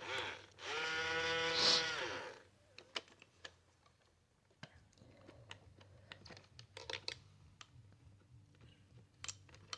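Toy tow truck's small electric motor and gearbox whirring steadily for about two seconds near the start, then a string of light plastic clicks and taps from the toy being handled.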